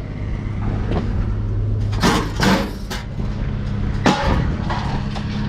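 A truck's engine idling steadily, with sharp knocks about two seconds in, again half a second later, and once more near four seconds.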